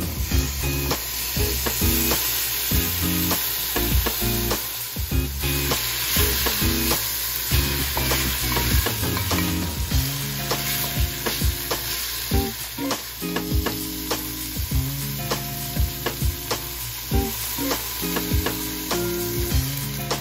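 Chicken and carrot strips sizzling in a hot pot while a wooden spatula stirs them and knocks against the pot, over background music.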